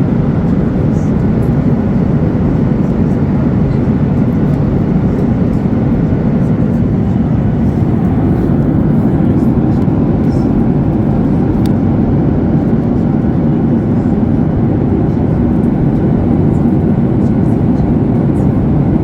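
Steady, loud rumble of a Boeing 737-8200's CFM LEAP-1B engines heard from inside the passenger cabin, with no change in pitch or level.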